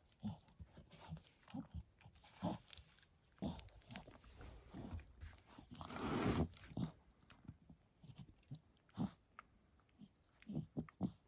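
Mother dog licking and chewing while whelping: short, irregular wet smacks and clicks, with one louder noise lasting about a second around six seconds in.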